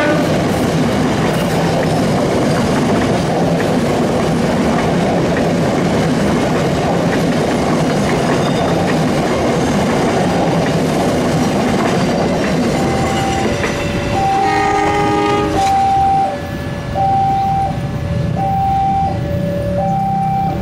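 A passenger train hauled by a CC201 diesel locomotive passes close by, its wheels rumbling and clacking over the rails. About three-quarters through, a train horn sounds once, briefly. From then on an electronic two-tone signal keeps alternating high and low, each note about half a second.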